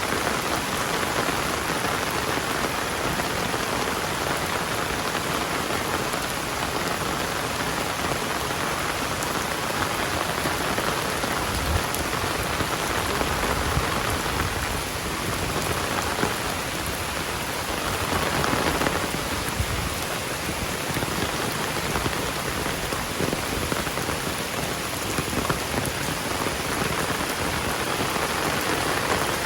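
Heavy rain falling steadily, a dense hiss of drops on surfaces, with a brief swell about two-thirds of the way through.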